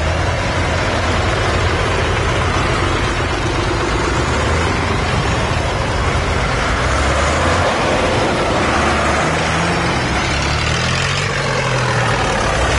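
Tractor engines running steadily with a deep, low hum, the engine note shifting in pitch in the last few seconds.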